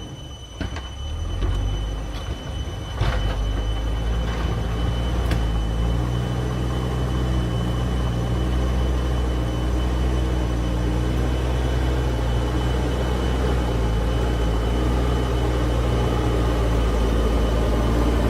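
JCB backhoe loader's diesel engine running steadily, with a few sharp knocks in the first few seconds.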